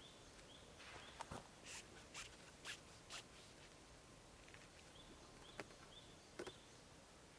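Quiet forest ambience: a bird repeats short high chirps about twice a second, and a handful of soft clicks and rustles come and go, mostly between one and three seconds in.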